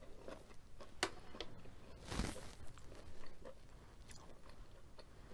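A person chewing a mouthful of food with the lips closed: soft, wet mouth clicks and smacks, with a sharp tick about a second in and a short breathy rush about two seconds in.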